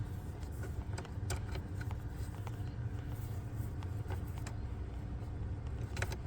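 Steady low background rumble, with scattered faint clicks and taps of small plastic parts being handled as the ignition module's wiring connector is lined up to be plugged in; two sharper clicks come near the end.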